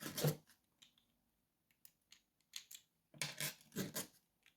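Small metal lock-picking tools clinking as they are handled. There are a few light clicks, then a louder cluster of clatter about three seconds in, as a tension wrench is picked out.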